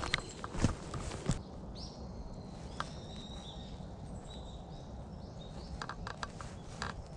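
Footsteps crunching on a woodland path, a few sharp steps in the first second and a half, then a small bird calling with thin high notes several times; more steps near the end.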